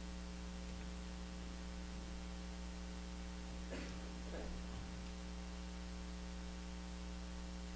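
Steady electrical mains hum with a background hiss, and a faint short sound about four seconds in.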